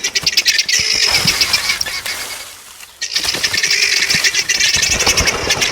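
Guineafowl calling with a rapid, harsh rattling chatter in two bouts, broken by a short pause about halfway through.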